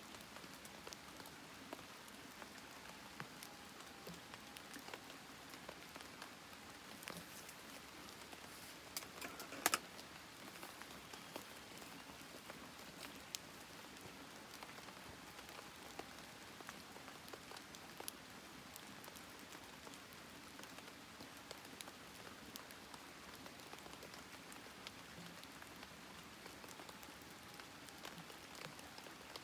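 Campfire crackling: a faint steady hiss with scattered sharp pops, and a louder cluster of pops about a third of the way in.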